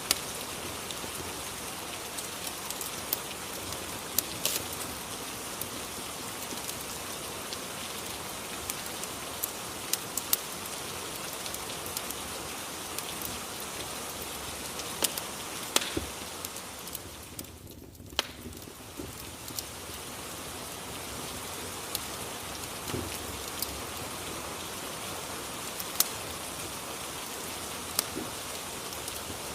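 Rain and fireplace ambience: a steady hiss of rain with scattered sharp crackles of a wood fire. It briefly fades about seventeen seconds in.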